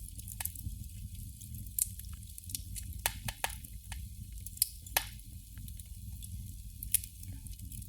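Candle flame crackling: irregular small pops and clicks, a few louder ones near the middle and about seven seconds in, over a faint low hum.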